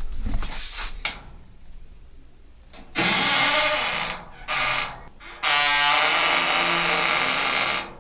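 Squeaky door hinge creaking and grating as a door is moved, in several pushes: a long screech from about 3 s, a short one a second later, and a longer one starting about halfway through.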